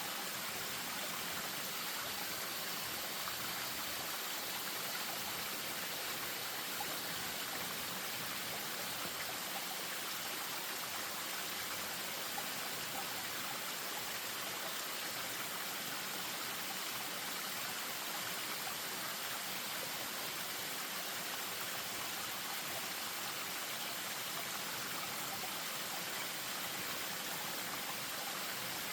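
Spring-fed stream spilling over a small waterfall: a steady, even rush of running water.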